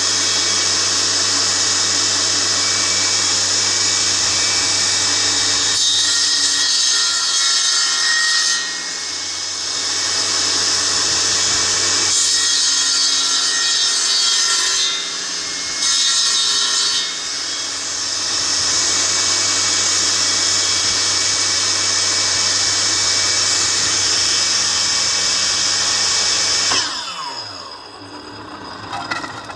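Electric power saw cutting wood, running steadily with a few brief dips in the cut. Near the end it is switched off and its motor winds down with a falling pitch.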